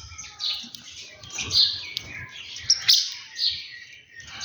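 Small birds chirping busily: many short, sharp calls overlapping one another, with a few clicks among them.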